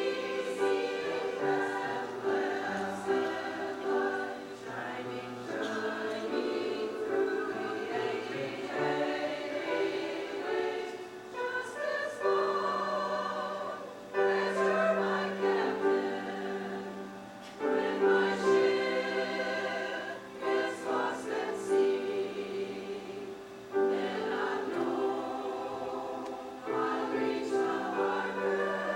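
Choir singing a hymn, sustained phrases that break and start again every few seconds.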